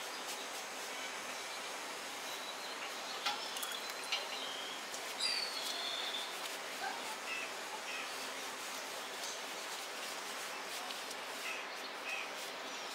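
Steady outdoor background noise with a few short, high bird chirps between about three and six seconds in.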